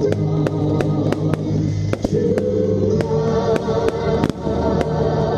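Aerial fireworks bursting in a rapid, irregular run of sharp bangs, a few each second, over loud music played for a pyromusical show.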